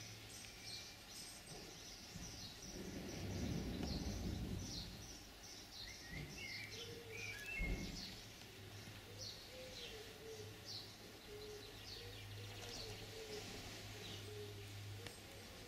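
Birds chirping in short, repeated high calls over a steady low hum. A low rumble swells about three seconds in, and a single knock sounds near eight seconds.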